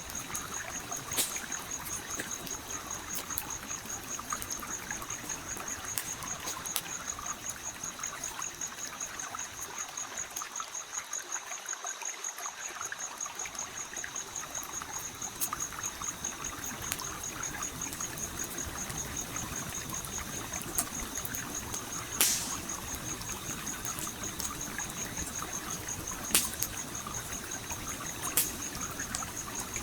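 A stream flowing steadily, with a wood campfire crackling over it and giving a few sharp pops, the loudest about two-thirds of the way in.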